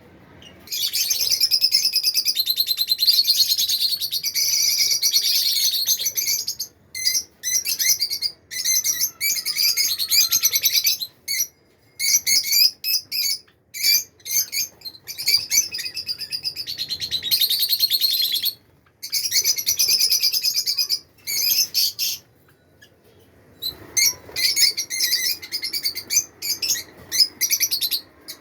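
Budgerigars chirping and chattering in fast, high warbling runs several seconds long, broken by short pauses.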